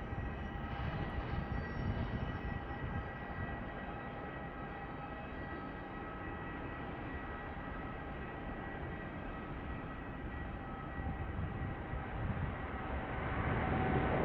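Jet airliner engines running, steady whining tones over a broad rumble, growing louder near the end.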